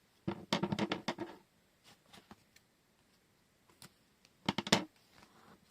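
Small objects handled on a tabletop: a burst of rapid clicking and rattling lasting about a second, then quiet, then a shorter burst near the end.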